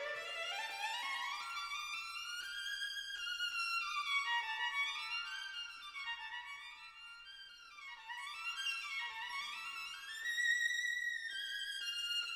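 Violin music: a solo melody rising and falling in long stepwise runs, with a softer passage in the middle.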